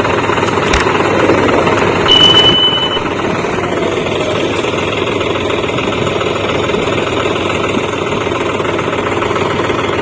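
Tractor diesel engines running steadily, a little louder about two seconds in, where a brief high-pitched tone sounds for under a second.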